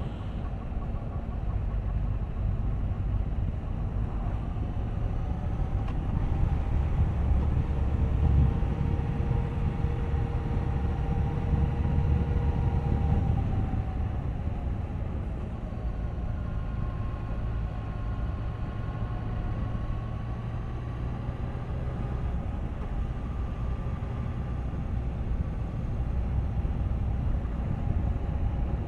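Suzuki GSX1250FA's inline-four engine running on the move, with steady wind and road rumble; the engine note shifts in pitch a few times as the speed changes.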